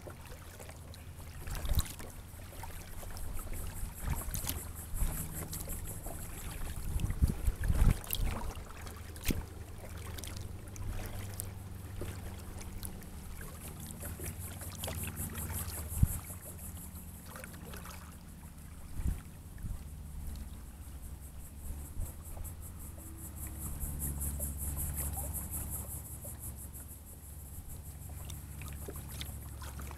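Water trickling and lapping around a sit-on-top kayak, with a few sharp knocks and splashes, over a steady low wind rumble on the microphone.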